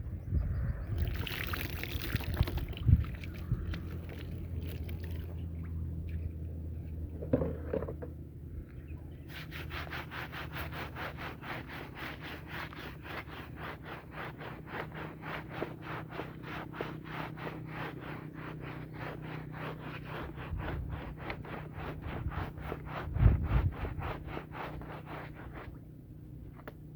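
A wet, muddy rug being scrubbed: through the second half comes a rapid, even rhythm of strokes, about five a second, over a low steady hum.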